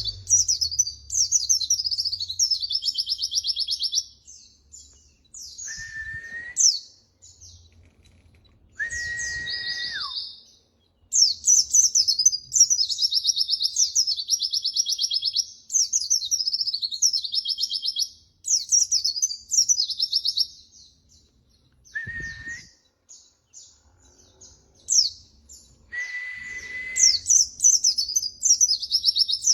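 White-eye (pleci) singing: rapid, high twittering phrases in long runs, with quieter gaps around the middle. A few long, steady, lower whistles stand out between the phrases.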